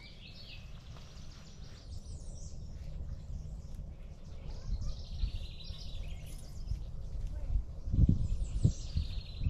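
A songbird repeating a short phrase of falling chirps every couple of seconds, over a steady low rumble, with a few low thumps near the end.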